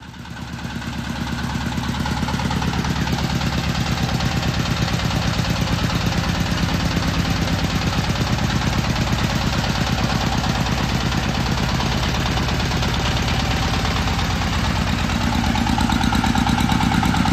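Mini crawler tractor's engine running steadily with a fast, even pulsing beat, rising in level over the first couple of seconds and a little louder near the end.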